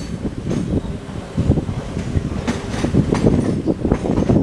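Passenger train running along the track, heard from the open doorway of a moving coach: a steady low rumble of wheels on rail, with sharp clacks as the wheels cross rail joints.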